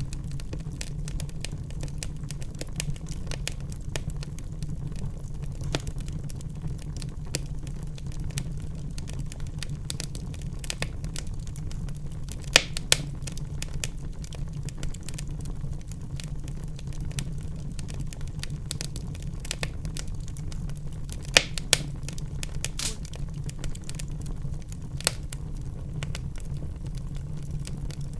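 Wood fire in a fireplace crackling and popping, with a steady low rumble of the burning underneath and a few sharp louder snaps.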